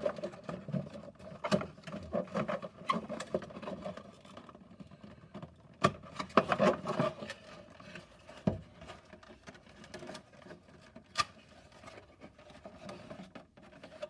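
Cardboard playset pieces being handled and fitted together: scattered rustling, taps and clicks, busiest near the start and again around six seconds in.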